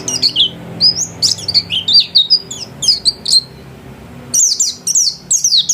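White-eye (pleci) singing a fast twittering song of high, quickly sliding notes, with a pause of about a second past the middle before the song resumes.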